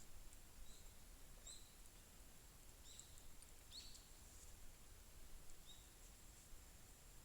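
Faint small-bird calls: about five short, high chirps spread over the first six seconds, over a low outdoor background hum.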